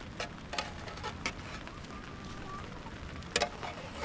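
Wood cooking fire crackling: a few sharp pops over a steady hiss, the loudest pop a little after three seconds in.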